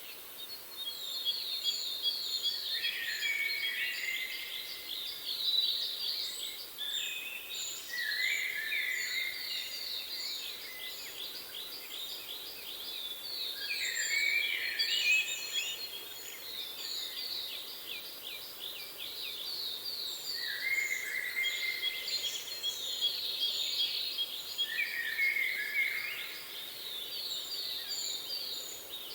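Several songbirds singing at once, a dense run of fast repeated chirps and trills that swells and eases every few seconds, over a faint steady background hiss.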